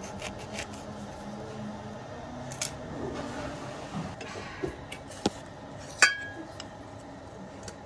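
Kitchen knife cutting a lemon on a stone countertop, with scattered knocks and clicks of the blade and fruit against the counter. The loudest sound is a single sharp click with a short ringing tone about six seconds in.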